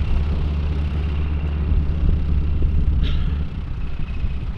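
Jet aircraft engine rumble, deep and steady with a faint high whine, easing off about three and a half seconds in.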